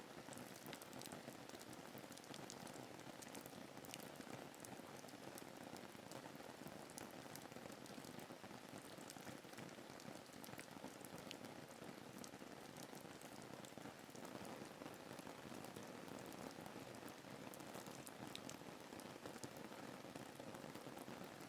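Faint, steady rain ambience: an even hiss of rainfall with many small, separate drop ticks.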